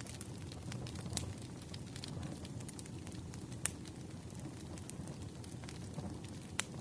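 Firewood burning: a low steady rumble of flames with scattered sharp crackles and pops. The loudest pops come a little past halfway and near the end.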